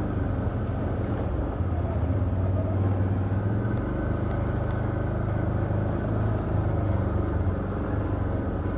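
Can-Am Outlander ATV engine running steadily at low revs.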